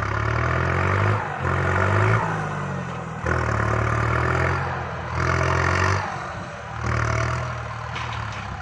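Kubota MU5702 tractor's diesel engine working under load while pushing soil. The engine note surges and eases repeatedly, about every one to two seconds, with clatter over it.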